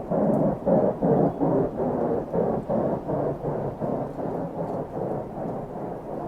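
An unexplained low rumbling noise that throbs evenly about three times a second, fading a little toward the end.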